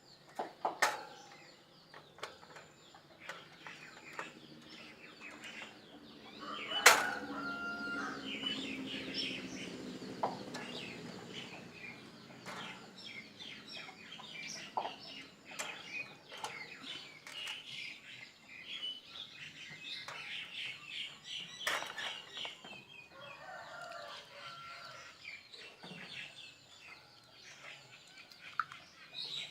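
Birds calling and clucking, with fluttering wings and scattered clicks and knocks; one sharp knock about seven seconds in.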